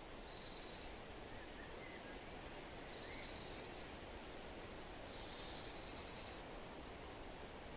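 Steady wind noise with a bird singing a short, high, buzzy trill three times, each under about a second, plus a few faint chirps.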